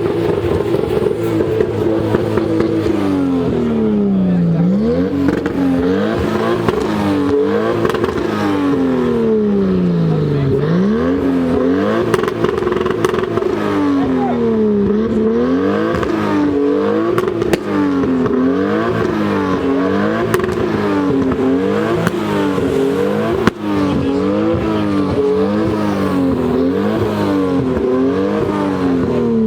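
Performance car engine revving repeatedly at a car meet: the revs are held high, then drop and climb back over and over, with the blips coming about once a second in the second half.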